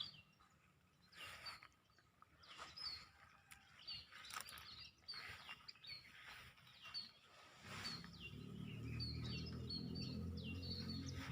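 A tame bird chirping over and over, short high chirps each dropping in pitch, sometimes in quick runs. About eight seconds in, a low steady hum joins.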